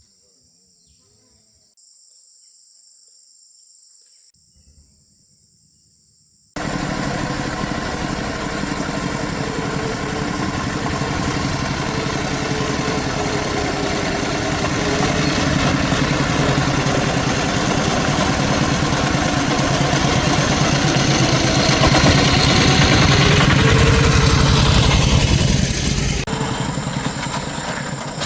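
Faint high steady insect-like tones, then about six seconds in a loud engine starts running abruptly. It holds steady, growing a little louder, and eases near the end.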